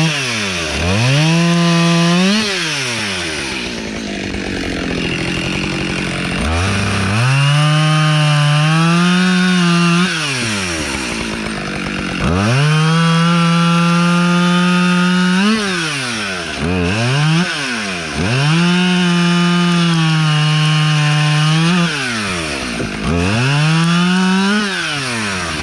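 Husqvarna two-stroke chainsaw cutting dry oak logs into firewood rounds. It revs up to full throttle and holds there through cuts of a few seconds each, then drops back toward idle between cuts, several times over.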